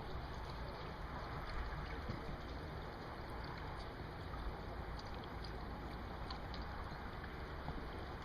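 Steady noise of wind and water on a lake, with a low rumble and faint scattered ticks.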